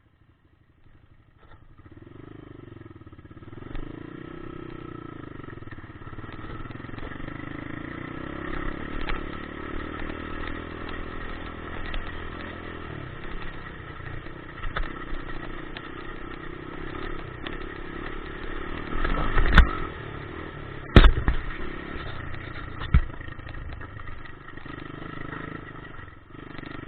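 Dirt bike engine running steadily, coming up out of near quiet in the first two seconds. About two-thirds of the way through come three sharp, loud knocks.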